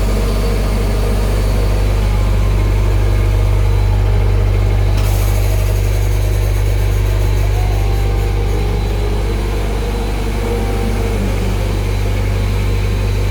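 Automatic pull-out tissue folding machine running, a loud steady low hum with mechanical rumble; a hiss grows louder about five seconds in.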